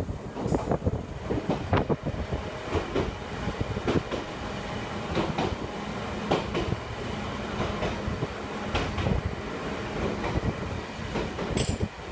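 Inside a moving electric commuter train car: the steady rumble of the running gear, with irregular wheel clacks over rail joints and a couple of brief high squeaks, one just after the start and one near the end.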